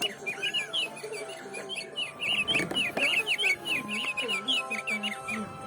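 Recorded house finch song played through a bird clock's small speaker: a long run of quick chirps and warbled notes.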